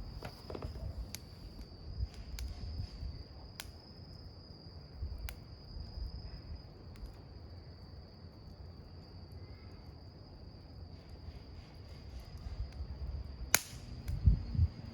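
Wood campfire burning: a low rumble of flame with scattered sharp crackles and one loud pop near the end, followed by a few low thuds. A steady high-pitched tone runs throughout.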